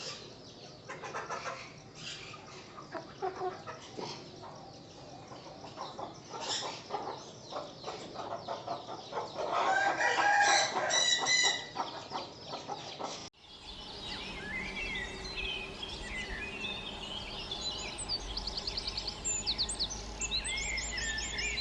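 Aseel rooster crowing once, the loudest call, about ten seconds in, amid clucking chicken calls. After an abrupt cut, small birds chirping, with a fast repeated trill near the end.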